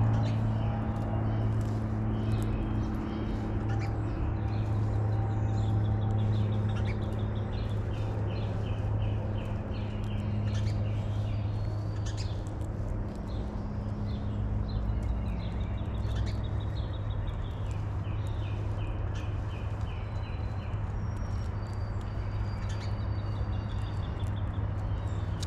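Small birds chirping in repeated quick series of high notes, over a steady low hum.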